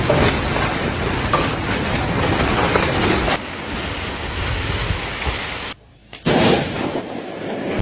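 Storm wind blowing hard, a dense rushing noise with wind buffeting the microphone. The sound changes abruptly about three and a half seconds in, then drops out for half a second around six seconds in before coming back loud.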